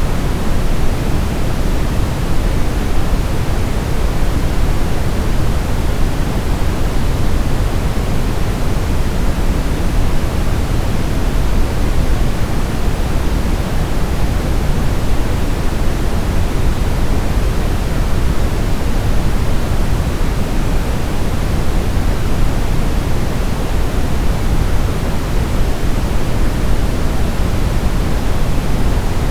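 Continuous generated sleep noise: a steady, even rushing with more weight in the low end than a bright hiss, unchanging throughout.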